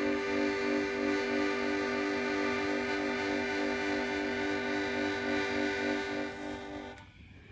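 Harmonica music: a steady held note under rhythmically pulsed chords, stopping suddenly about seven seconds in.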